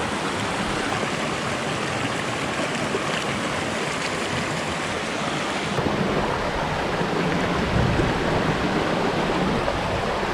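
Small stream rushing and splashing over rocks and little waterfalls, a steady wash of water. About halfway through, a low rumble builds beneath it: distant thunder from an approaching storm.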